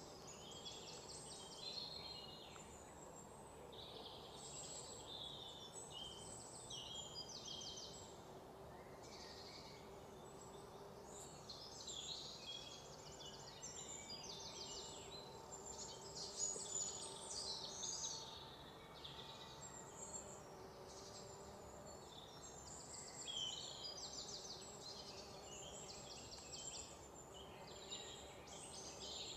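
Faint high bird chirps and rapid trills, repeated throughout, over a low steady background hum.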